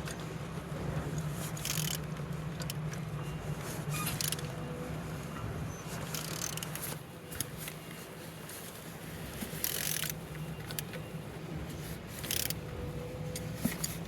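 A removed car engine being turned over by hand with a wrench, giving a few short scraping and rasping sounds, about four spread through, over a steady low hum. It turns freely, which points to an engine that is not seized.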